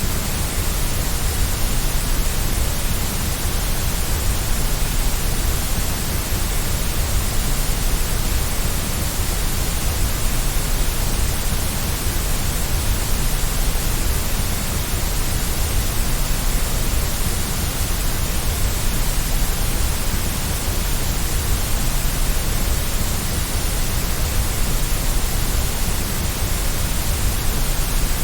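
Steady white noise for baby sleep: an even, unchanging hiss across the whole range with a deep low rumble beneath it.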